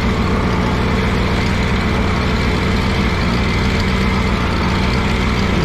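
Allis-Chalmers G tractor's small four-cylinder engine running steadily as the tractor is lined up for the next pass.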